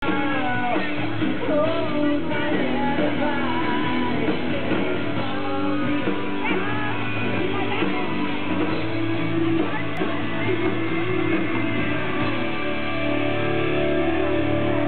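Pop-rock band playing live with a male lead vocal, recorded through a small camera's microphone in the hall.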